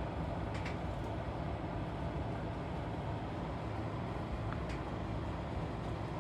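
Steady rain during a thunderstorm: an even, unbroken noise with a low rumble under it and two faint ticks, one near the start and one near the end.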